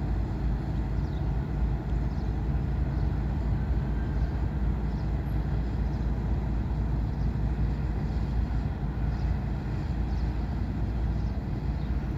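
Ferry's engines running with a steady low rumble.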